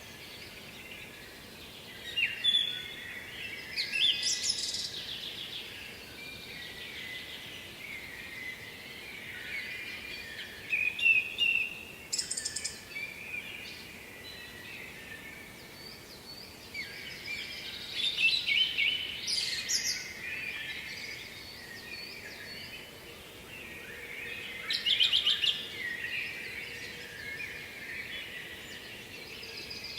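Songbirds singing: bursts of bright, chirpy song about every seven seconds, with quieter twittering between.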